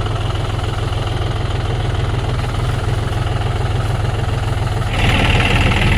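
John Deere tractor's diesel engine running steadily at low revs, with a low, even rumble. About five seconds in it grows a little louder and a higher-pitched noise joins it.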